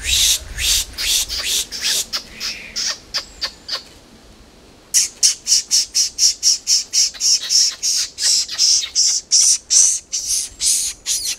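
A bird calling in a fast series of short repeated notes, several a second. The calls pause for about a second near the middle, then start again suddenly in a dense, steady run.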